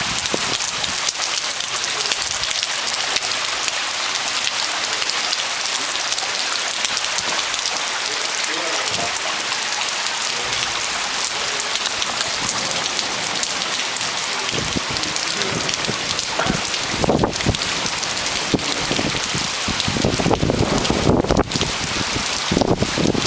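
Heavy rain falling steadily, a dense even hiss. In the second half, irregular low rumbles come and go over it and grow stronger toward the end.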